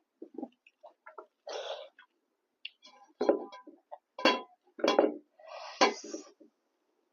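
Close-miked eating: wet chewing and mouth sounds with sharp smacks and clicks, and two longer slurping hisses, one about a second and a half in and one near the end.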